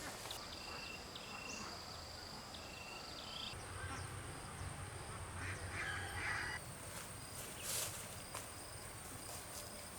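Rural outdoor ambience: insects keeping up a steady high-pitched drone with short repeated chirps, and a brief faint animal call, possibly fowl, about halfway through.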